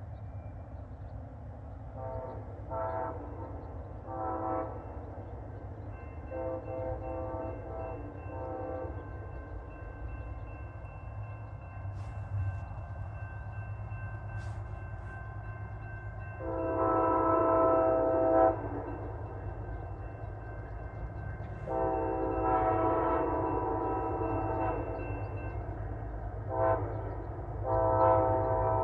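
Locomotive air horn on the lead Amtrak Charger of the Auto Train, sounding a series of blasts as the train approaches. The long blast about 17 s in is the loudest, and the series ends long, long, short, long in the grade-crossing signal. A steady low rumble from the train runs underneath.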